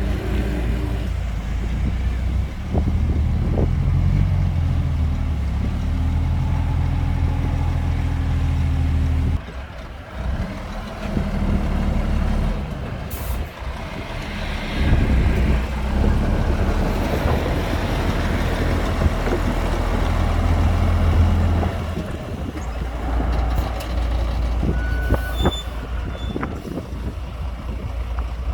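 Heavy diesel dump truck engine running under load, its rumble rising and falling. There is a brief hiss of air around the middle and a few short beeps near the end.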